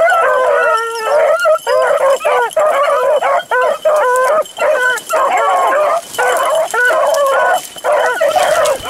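Pack of beagles baying while running a rabbit on scent. Many short, arching hound cries overlap into a nearly continuous chorus, broken only by brief gaps.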